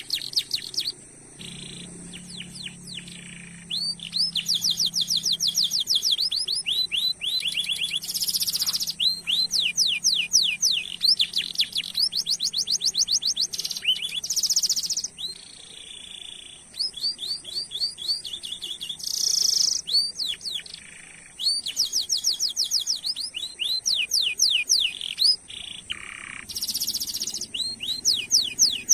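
Domestic canary singing: long, fast trills of repeated downward-sweeping high notes, broken every few seconds by short buzzy bursts and brief pauses.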